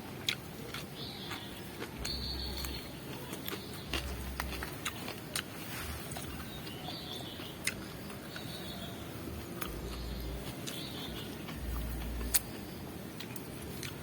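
Close-up chewing and crunching of raw vegetables, heard as a run of irregular sharp crunches and clicks, with birds chirping faintly now and then.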